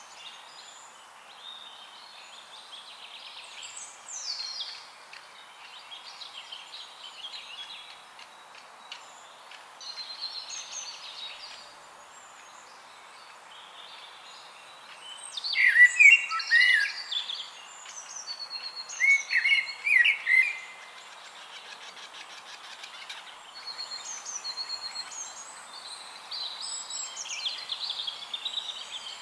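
Songbirds singing and chirping, several overlapping calls, over a faint steady hiss. The calls are loudest in two bursts of rapid chirping about halfway through.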